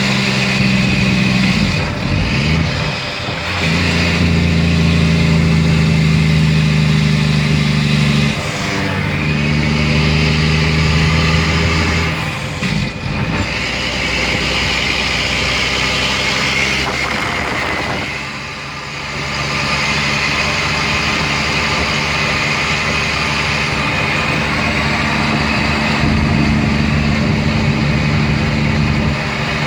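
2004 Mack Granite dump truck's diesel engine running under way, with a steady low engine note. The note breaks off and picks up again several times, and drops briefly about two-thirds of the way through.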